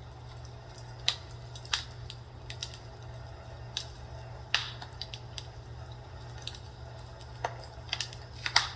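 Fire crackling in a fireplace: irregular sharp pops and snaps, a louder one about four and a half seconds in and a cluster near the end, over a steady low hum.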